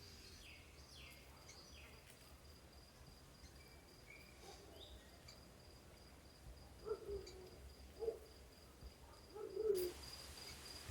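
Quiet outdoor ambience: a steady, high insect trill with a few short, falling bird chirps. Several short, lower-pitched calls follow in the second half.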